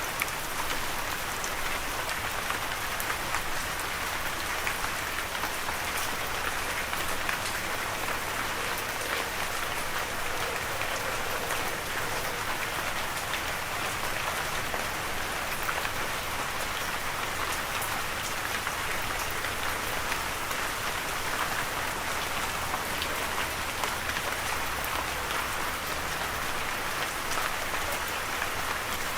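Steady rain falling on a surface, an even hiss speckled with the ticks of individual drops.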